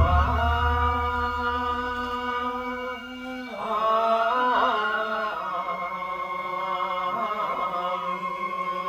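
Chanted singing of the nenbutsu kenbai dance's accompaniment: long notes held for several seconds, with a sliding, wavering turn in the pitch about halfway through.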